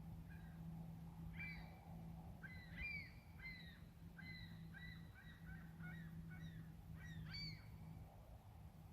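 A bird calling faintly: a run of about a dozen short, arching notes in quick succession, over a faint steady low hum.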